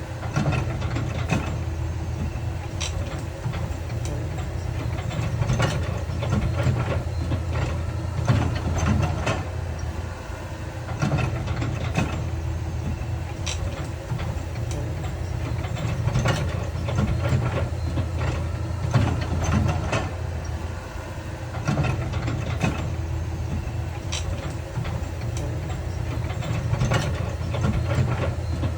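Heavy earthmoving machinery's diesel engine running steadily, with scattered clanks and knocks throughout.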